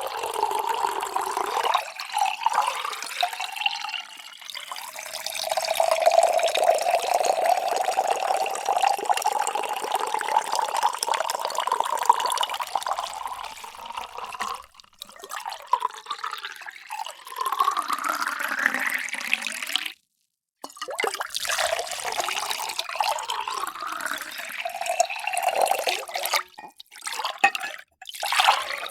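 Water poured into vessels in several separate pours, each with a splashing, gurgling rush and a ringing note that rises in pitch as the vessel fills. The sound cuts out briefly about two-thirds of the way through, and a new pour starts.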